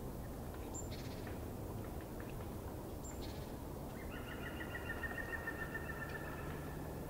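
Small birds calling over a steady low outdoor background: a short high chirp about a second in and another around three seconds, then a rapid trilling call on several pitches at once that lasts about three seconds.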